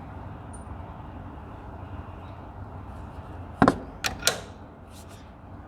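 Hand tools knocking on the diesel engine's rocker-arm hardware while the rockers are worked loose: three sharp metallic clanks in quick succession a little past halfway, over a steady low background hum.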